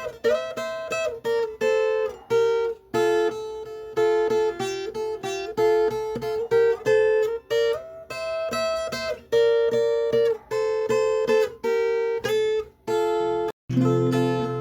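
Background music: acoustic guitar strumming and picking chords, with a fuller, lower-pitched passage coming in near the end.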